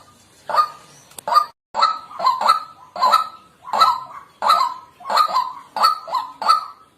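White-breasted waterhen calling: a steady run of harsh, honking 'kwak' notes about two a second, some coming in quick pairs.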